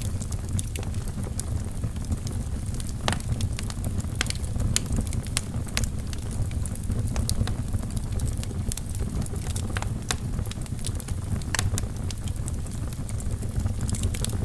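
Wood fire burning in a fireplace: a steady low rumble of flames with irregular crackles and pops from the burning logs, a few louder snaps among them.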